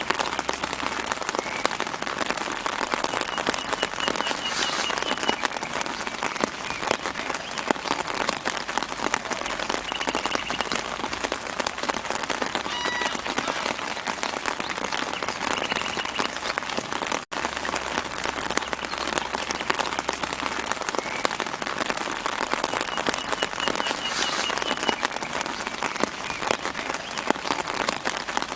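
Steady gentle rain falling on leaves, a dense patter of fine drops, with a bird's short repeated call sounding faintly every several seconds. The sound cuts out for an instant a little past halfway.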